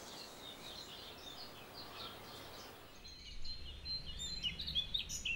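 Birds chirping faintly. The calls are sparse at first and grow busier about three seconds in, when a low rumble also comes in.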